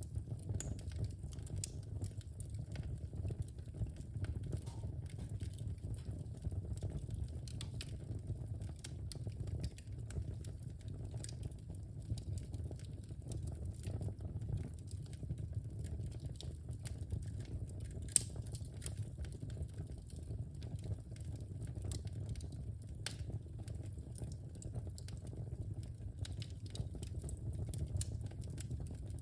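Wood fire crackling in a fireplace: a steady low rumble of the flames with frequent small pops and snaps, and one sharper pop about two-thirds of the way through.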